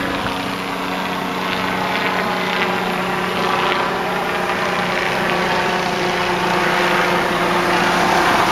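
A vehicle engine idling with a steady low hum, with a few faint handling clicks.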